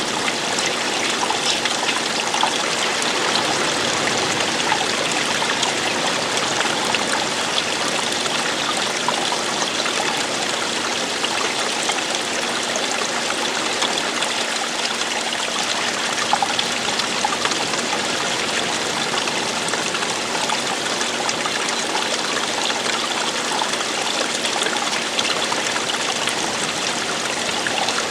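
Running water of a stream falling over rocks: a steady, continuous splashing and trickling that does not change.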